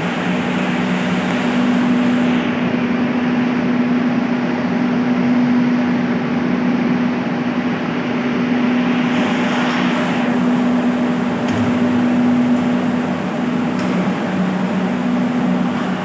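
Electric water pumps running steadily, a constant machine hum with two steady tones over a broad rushing noise.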